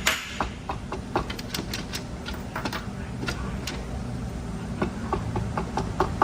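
Irregular light metallic clicks and taps, several a second, from transmission drum and clutch parts being turned and worked into the case by hand. A steady low hum runs underneath.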